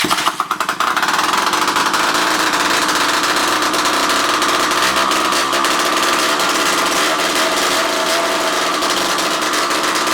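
1970 Vespa Sprint's two-stroke single-cylinder engine catching, sputtering unevenly for about a second, then running steadily. It is the engine's first run after an unknown time standing.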